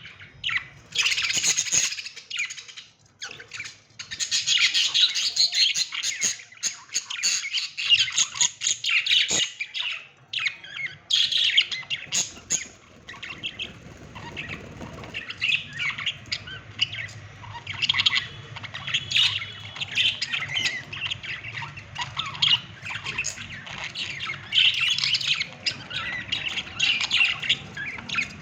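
Budgerigars chirping and squawking in a continuous chatter, with brief lulls about three and ten seconds in.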